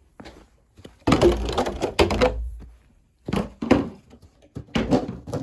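Crunching and scuffing in snow in three bursts, one long and two short, like boots tramping through fresh snow.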